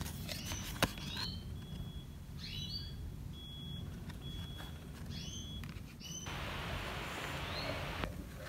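A bird chirping in short, high calls, one every half second to a second, with a few brief steady whistle notes. A soft hiss sounds for about a second and a half, starting about six seconds in.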